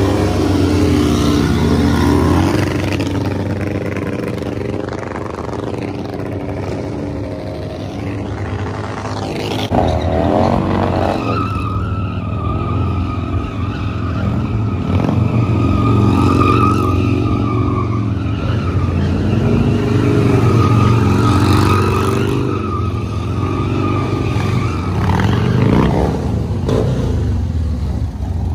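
Motorcycle engine revving hard and repeatedly, loud throughout, with a steady tyre squeal running through the middle of the stretch.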